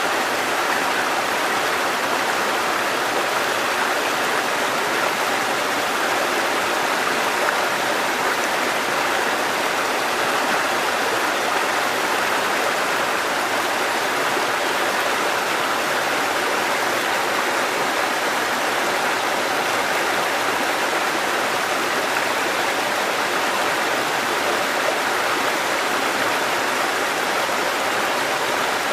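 Water cascading over rocks in a mountain stream: a steady, even rush of running water.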